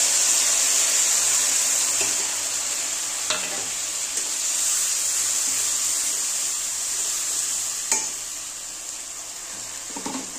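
Wet spice paste frying in hot oil in a metal kadai: a steady sizzle that eases off in the second half as the masala is stirred with a metal spatula. Two sharp clicks about three and eight seconds in.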